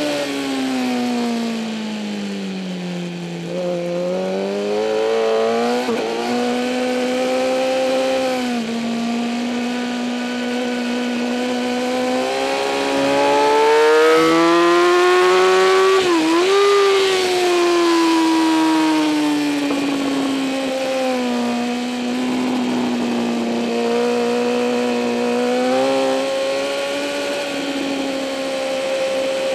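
2008 Kawasaki ZX-10R inline-four engine at racing pace, its revs falling steeply in the first few seconds, then climbing, peaking about halfway with a brief dip, easing off and climbing again near the end, over a steady rush of wind noise.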